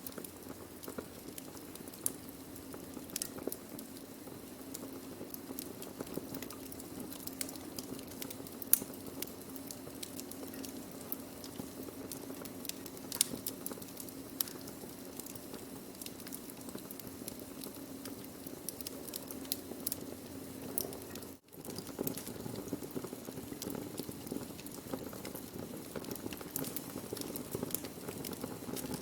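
Wood fire burning: a steady low rush of flame with frequent sharp crackles and pops from the burning wood. The sound drops out for a split second about two-thirds of the way through.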